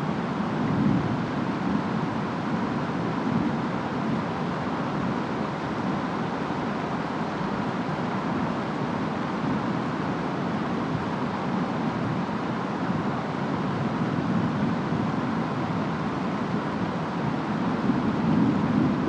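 Steady rain with wind, an even hiss over a low rumble that grows a little louder near the end.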